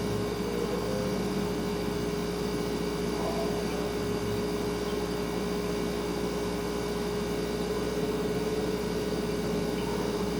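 Refrigerator running: a steady hum with one constant tone over a faint even hiss.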